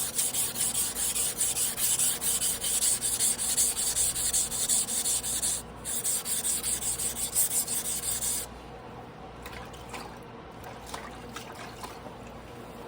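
A carbon-steel Damascus sashimi knife blade scraping back and forth on a whetstone in quick, even strokes, as it is ground by hand. The strokes pause briefly just before the middle, stop about two-thirds of the way in, and are followed by a few faint clicks.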